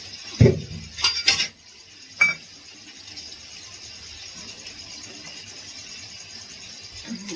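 Kitchen utensils and dishes being handled: a dull thump, then a quick run of knocks and clinks, and one ringing metallic clink a little after two seconds.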